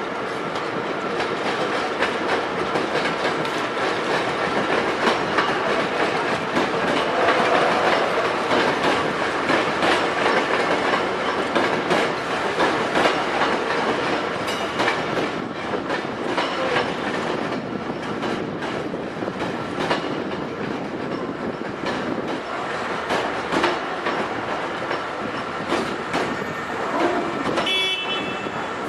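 Hankyu 5300 series electric train running on the rails, a steady rumble with repeated clicks of the wheels over rail joints. Just before the end a short high-pitched tone sounds.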